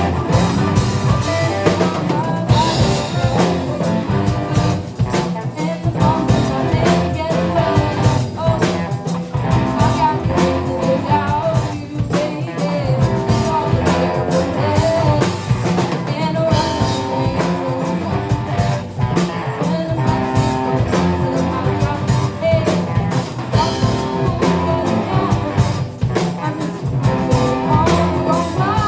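Rock band playing a cover song: drum kit and electric guitar, with some singing.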